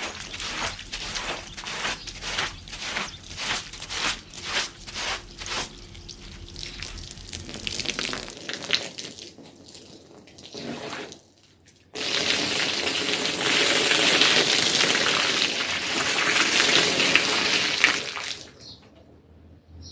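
Wet carpet being worked with rhythmic strokes, about two a second, fading out after about eight seconds. After a short lull, a strong jet of water sprays steadily onto the carpet for about six seconds, then cuts off.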